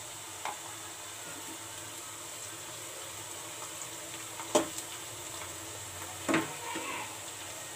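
Onions and chopped green and red chillies sizzling steadily in hot mustard oil in a kadhai. A spatula stirs them, knocking sharply against the pan twice, once past the middle and again near the end.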